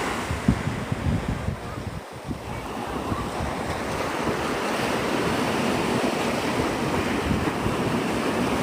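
Gulf of Mexico surf washing onto the beach, a steady rushing, with wind gusting against the microphone in low rumbles that drop away briefly about two seconds in.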